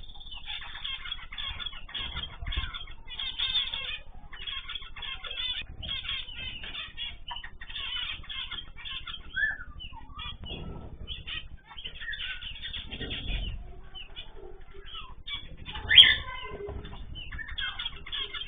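Many small cage birds chirping continuously, with wings fluttering and a few soft low thumps. A sharp, louder knock about sixteen seconds in.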